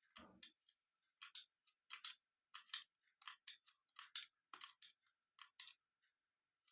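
Faint, irregular clicking from a battery wall clock as its hands are being turned by hand to set the time, often two clicks close together, with a soft thump at the very start.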